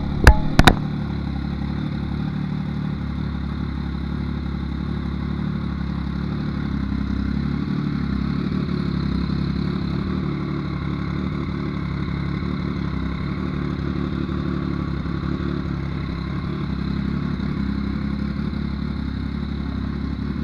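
Yamaha MT-09's inline three-cylinder engine idling steadily, with a few sharp clicks right at the start.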